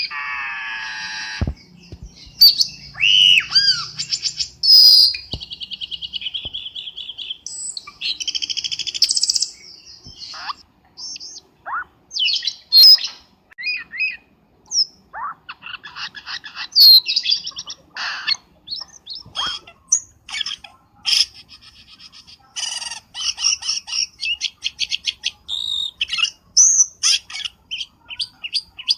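Cucak keling bird calls played as a lure recording: a varied, busy string of chirps, short whistles that glide up and down, and fast rattling trills.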